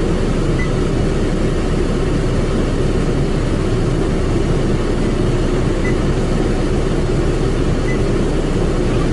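Automatic car wash machine running, heard from inside the car: a steady, loud, dense rumble with no breaks.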